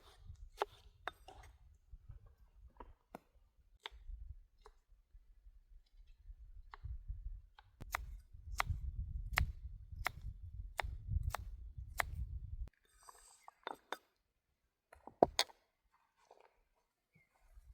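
A series of sharp clicks and knocks, coming about twice a second in the middle stretch, over a low rumble that cuts off suddenly about thirteen seconds in; a few loose clicks follow.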